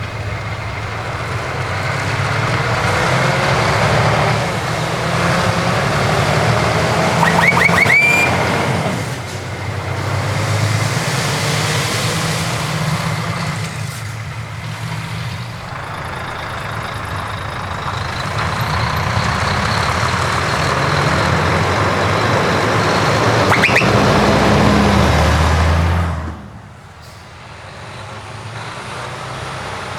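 Heavy trucks with open exhaust pipes driving past one after another, their engines loud, with a couple of brief rising whistles; the sound drops off suddenly near the end.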